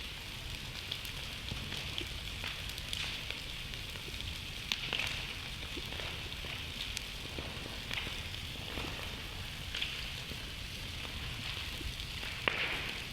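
Wood fire burning, crackling steadily with scattered sharp pops, the loudest about five seconds in and near the end, over a low steady rumble.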